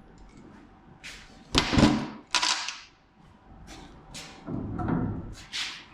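A few separate knocks and clunks with some rattling, the loudest pair about two seconds in.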